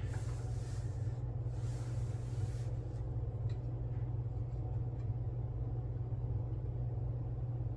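Steady low electrical or mechanical hum of the room, with faint soft rubbing in the first couple of seconds as foil is pressed down.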